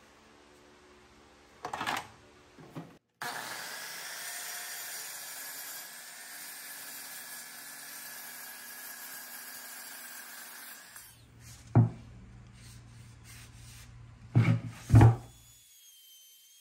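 Kobalt sliding compound miter saw running and cutting through a wooden board, a steady whining saw noise lasting several seconds. A sharp knock comes about two seconds in, and a few loud wooden knocks come near the end.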